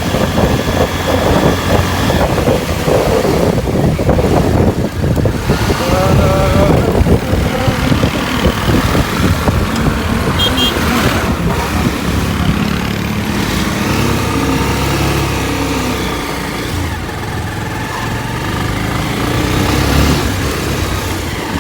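Motorcycle riding noise picked up by the camera's own microphone: a steady rush of wind noise over the engine and road sound, loud enough to drown out the rider's speech.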